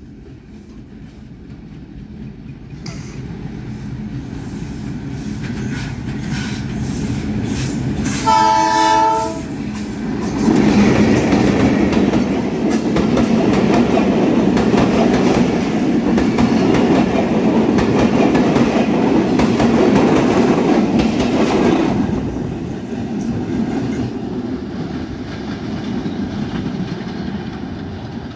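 A diesel passenger train approaches with a rumble that grows steadily louder, and its horn sounds once for about a second. The coaches then pass close with loud wheel-on-rail noise, which drops away as the train recedes.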